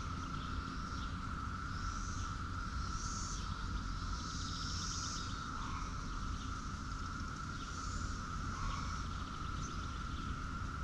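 Outdoor farmyard ambience: a steady high insect drone over low rumble. A few short, high chirps come in about 2, 3, 5 and 8 seconds in.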